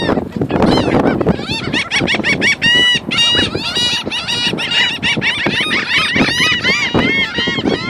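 A flock of gulls calling loudly, many short squawking calls overlapping several times a second.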